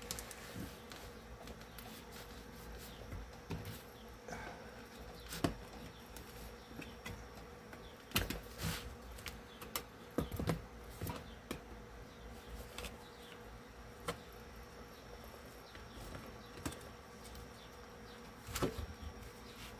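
A faint steady buzzing hum, with scattered clicks and knocks from hand tools working nails out of a wooden speaker cabinet.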